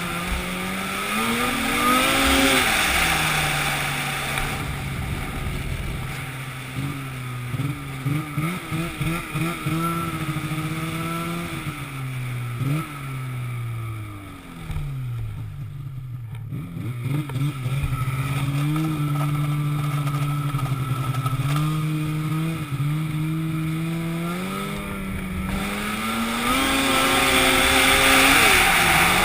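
An engine running with its pitch rising and falling several times as it is revved and eased off, stuttering briefly in the middle, and revving higher again near the end.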